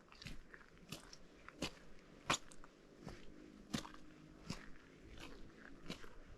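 Footsteps crunching on partially melted snow at a steady walking pace, about one step every three-quarters of a second.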